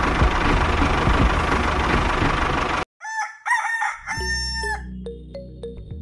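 Steady engine noise that cuts off abruptly about halfway through, followed by a rooster crowing for about a second, then a few steady held musical tones.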